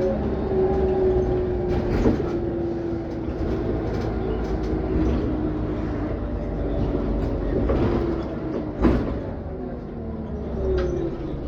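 Scania OmniCity city bus heard on board while driving: a steady drivetrain and road rumble with a whining tone that slowly falls in pitch, and a second falling whine near the end. Rattles and knocks from the body, the loudest about nine seconds in.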